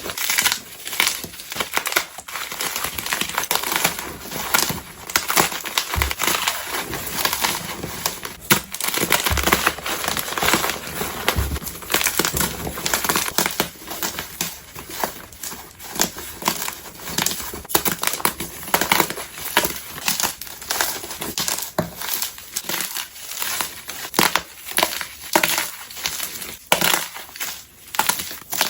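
Blocks of gym chalk (magnesium carbonate) being crushed by hand in close-up, with continuous dense crunching and crumbling, several crunches a second.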